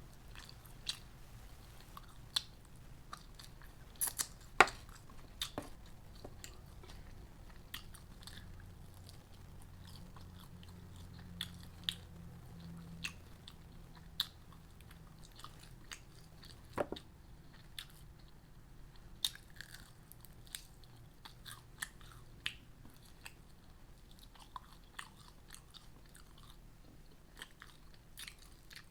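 A person chewing and biting food close to the microphone, with scattered sharp clicks and crunches; the loudest comes about four and a half seconds in.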